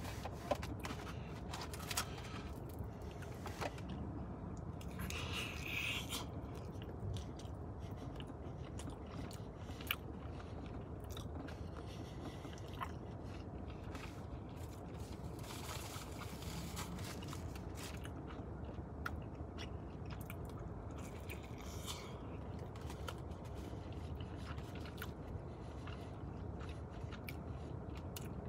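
Close-miked mouth sounds of a person chewing and biting pizza, a steady wet chewing with scattered sharp clicks.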